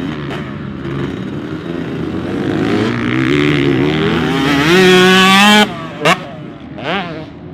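Two-stroke motocross bike engine revving, climbing in pitch and getting louder for a couple of seconds before cutting off suddenly. Two short throttle blips follow, and the sound fades.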